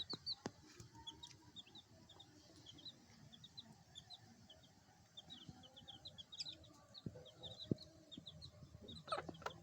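Chicks peeping: many short, high chirps, faint and scattered throughout, with a few sharp taps and a louder, lower call near the end.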